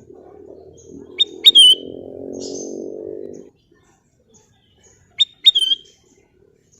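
Kutilang emas, a bulbul, giving two short whistled calls about four seconds apart, each a sharp clipped note followed by a downward-slurred whistle. A low hum runs underneath through the first half and stops abruptly, and faint high chirps are scattered throughout.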